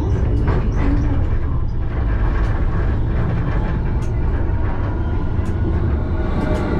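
Alstom Citadis tram running along the track, heard from the driver's cab: a steady low rumble with a few faint sharp clicks.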